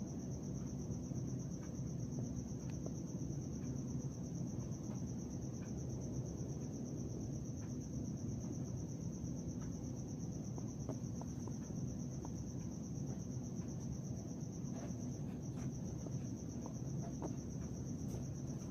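Crickets trilling in one steady, unbroken high-pitched chorus over a low background rumble, with a few faint ticks.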